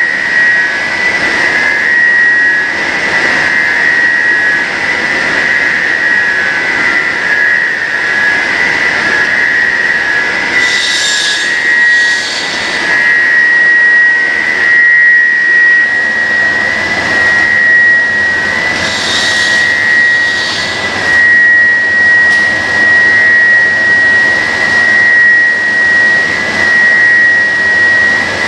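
Extruded pet-treat cutting machine running, a loud steady high-pitched whine over mechanical noise. Twice, about a third and two-thirds of the way through, short bursts of hiss rise over it.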